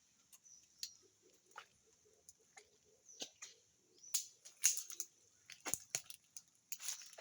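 Irregular rustling, cracking and squelching of footsteps through muddy undergrowth, getting busier and louder about four seconds in, over a steady high hiss.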